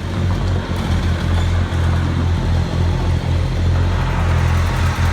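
Engine of a piece of heavy equipment running steadily with a low, even hum.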